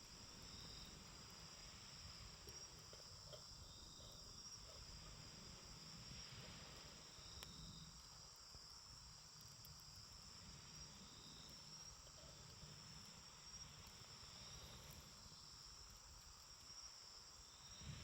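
Faint, steady high-pitched trilling of insects such as crickets, with a few faint pops from a campfire.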